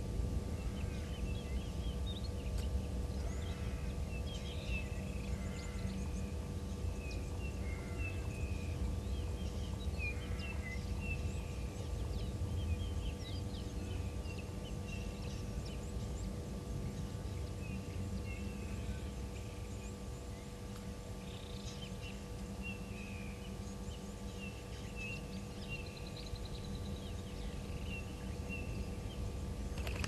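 Small birds chirping and twittering, many short calls scattered throughout, over a steady low rumble and a faint steady hum.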